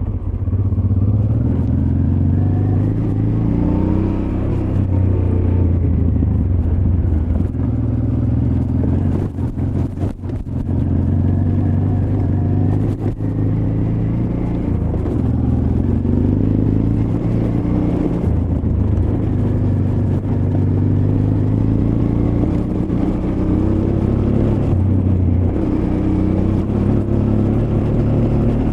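Honda Transalp XL600V's V-twin engine running under load on the move, its revs rising and falling repeatedly as the throttle opens and closes. The engine drops off briefly near the middle, where a few sharp knocks are heard.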